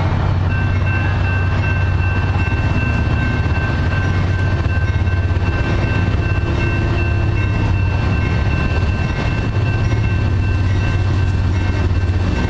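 Train passing close by: a steady, loud low rumble, with a thin, steady high-pitched squeal that sets in about half a second in and holds.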